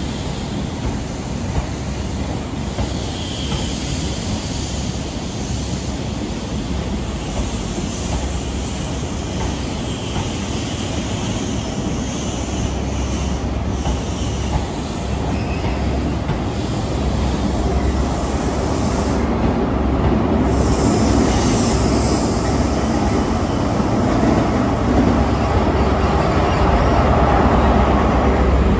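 High Speed Train (InterCity 125) moving slowly past the platform: Mark 3 coaches rolling over the rail joints. The diesel engine of the rear Class 43 power car grows steadily louder over the last ten seconds as it draws level.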